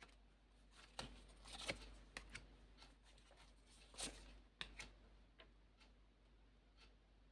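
Near silence with a few faint, scattered clicks and rustles of tarot cards being drawn and laid down, loudest around four seconds in.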